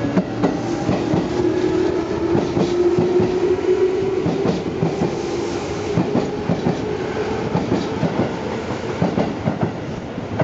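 Tobu 10050 series electric commuter train pulling out and passing close by, its wheels clacking over rail joints in a steady stream. A hum rises slightly in pitch over the first few seconds. The clacking thins as the last cars clear near the end.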